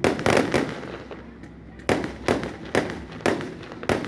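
Fireworks going off in a rapid string of about eight sharp bangs: three quick ones at the start, then a brief lull, then five more about half a second apart.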